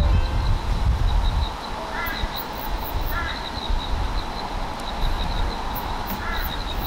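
A bird calling three times, short pitched calls a second or a few seconds apart, over a steady low rumble.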